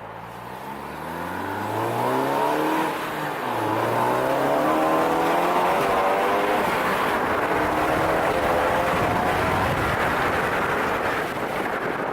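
Ford Focus ST's turbocharged 2.0-litre four-cylinder accelerating hard through first, second and third gear, its pitch rising in each gear and dropping back at each shift, about three and seven seconds in. The electronic exhaust cutout is closed, so the exhaust runs through the catless downpipe and resonator-deleted system.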